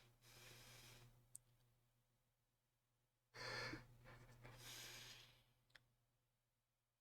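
Near silence with faint breathing close to the microphone: two soft breaths, the second longer, each followed by a tiny click, over a low steady hum.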